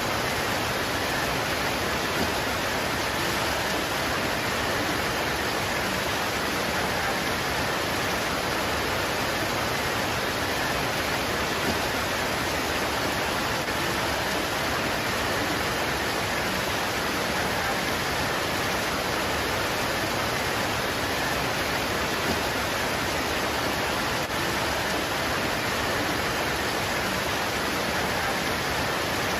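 Steady, even downpour of rain falling on leaves, a constant hiss with no separate drops or thunder standing out.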